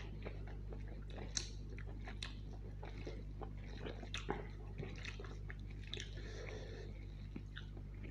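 Close-miked chewing of a mouthful of biryani rice and chicken curry, with irregular wet smacks and clicks, along with fingers squishing rice into the curry sauce on the plate. The sharpest smacks come about a second and a half and four seconds in, over a steady low hum.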